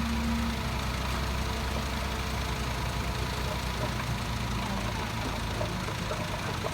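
Heavy diesel engine of an earthmoving machine running steadily.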